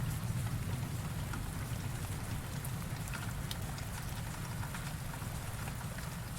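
Heavy rain falling steadily, with scattered sharp drop hits, while the low rumble of a thunderclap dies away over the first couple of seconds.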